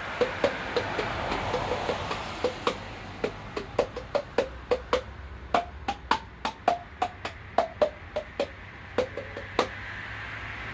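Hand-beaten jaw played as a percussion instrument: a quick run of sharp, hollow knocks, about three to four a second, each with a short pitched note that changes from knock to knock to pick out a tune. The knocks stop about a second before the end.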